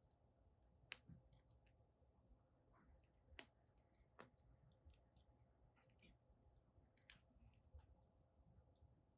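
Wood fire crackling faintly, a steady scatter of small clicks with a few sharper pops, the loudest about a second in and near the middle.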